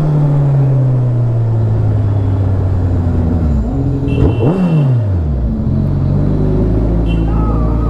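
A vehicle engine winds down slowly. About four seconds in it gives one quick rev that rises and falls away, then settles into a steady idle.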